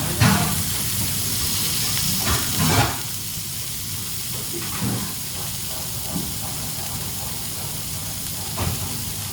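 Steady hiss of cooking on a hot stove, loud for the first three seconds and then quieter. A few short knocks of pans or utensils sound through it.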